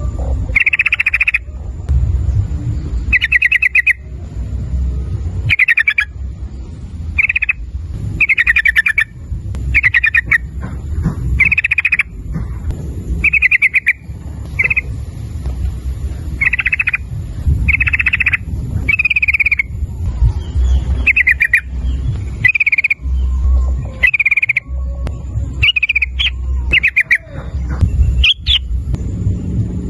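Yellow-vented bulbul (trucukan) calling over and over: short bubbling, chattering phrases, about one every second or two, over a low rumble.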